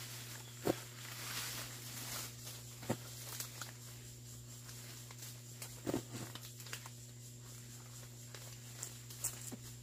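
A hoe chopping into soil and weeds: a few sharp strikes a couple of seconds apart, the one about six seconds in the loudest, with lighter knocks near the end, over a steady low hum.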